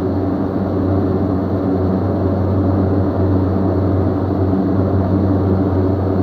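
Steady low drone of aircraft engine noise, holding an even level throughout.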